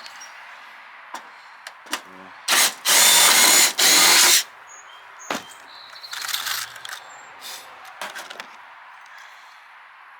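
Power drill running in three short bursts, drilling into the metal downspout, with a weaker burst a couple of seconds later and scattered clicks and knocks of metal parts being handled.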